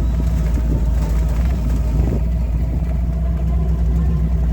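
Car engine running steadily while driving, with a constant low rumble of engine and road noise.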